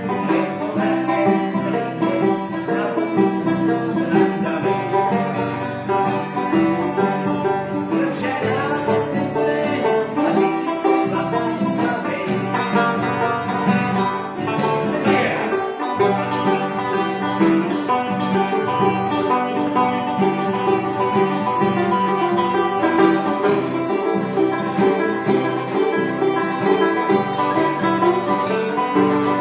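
Music played on plucked string instruments, running continuously.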